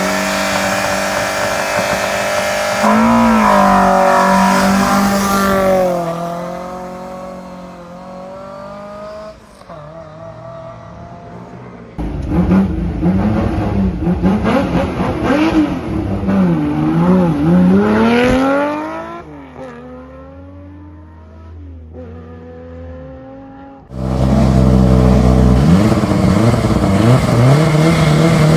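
Three rally cars launching in turn. A Fiat 131 Racing's engine is held at high revs, drops and climbs as it launches about three seconds in, and fades away. A Porsche 911 Carrera RS's flat-six is revved up and down repeatedly on the line before pulling away and fading, and a Toyota Celica ST165 Gr.A's engine is held at high revs near the end.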